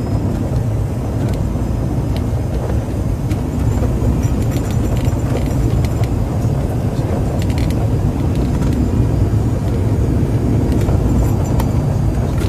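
Steady drone of a small Cessna's piston engine and propeller, heard from inside the cabin during the landing approach.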